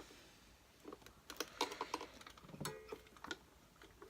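Light clicks and taps of hands handling an upturned upright vacuum cleaner's plastic casing and belt, a scattering of them through the middle with one brief ringing knock.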